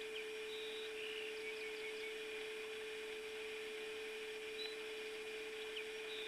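Faint bird chirps, a few short high notes about a second in and again near the end, over a steady hum.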